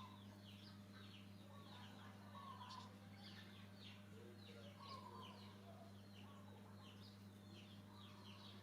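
Faint chirping animal calls: many short high chirps, several a second, each falling in pitch, with an occasional lower call, over a steady low hum.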